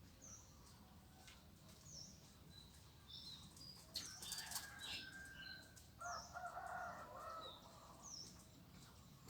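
Faint birdsong outdoors: short, high, falling chirps repeat every second or two. About four seconds in comes a quick flurry of wing flaps, and around six seconds in a lower, longer call from a chicken.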